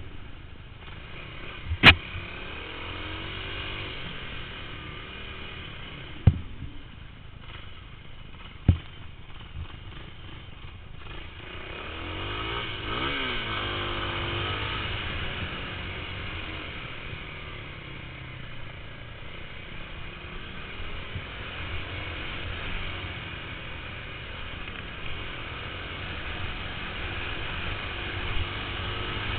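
Motorcycle engine running and revving up and down, with three sharp knocks about 2, 6 and 9 seconds in.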